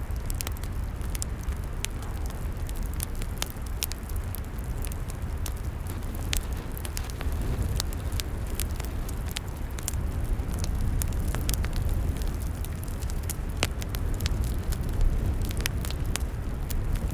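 Log campfire crackling, with frequent sharp, irregular pops and snaps over a steady low rumble.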